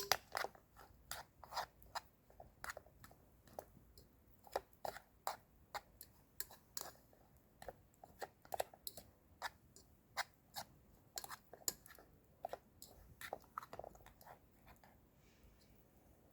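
A person chewing crunchy fried migas (fried breadcrumbs) close to the microphone, with short crunches at roughly two a second.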